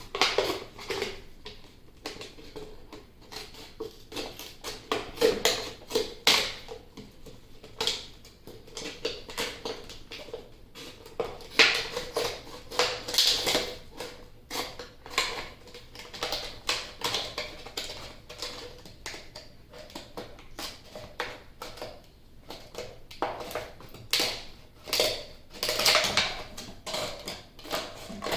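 Scissors cutting through the thin plastic wall of a 2-liter bottle: a long run of irregular sharp snips and crackles.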